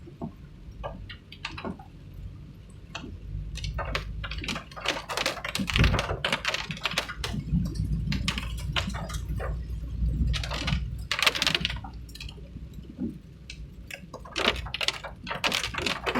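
Raindrops tapping irregularly on the vehicle or the microphone, in quick scattered clicks that grow denser after the first few seconds, over a steady low rumble of the moving vehicle.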